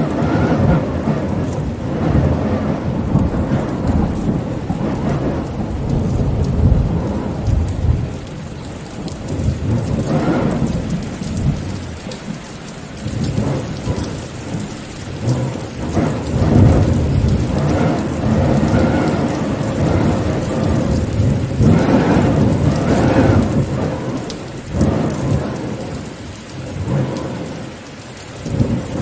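Steady rain in a windy storm, with deep rumbling swells that rise and fall every few seconds.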